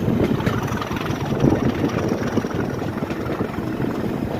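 A railway engine idling: a steady, even rumble with a faint high whine slowly falling in pitch.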